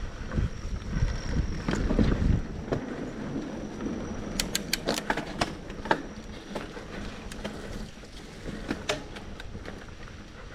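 Mountain bike being ridden on a dirt trail: low tyre rumble and wind on the microphone, with a run of sharp clicks and rattles from the bike in the middle.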